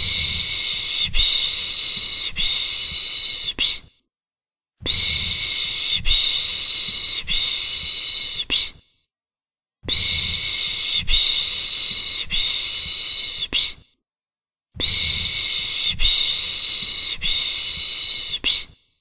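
A person's 'pış pış' shushing sound for soothing a baby: a long hissing 'shhh' in bursts of about four seconds, each with a few soft pulses, broken by pauses of about a second. It repeats four times in an even loop.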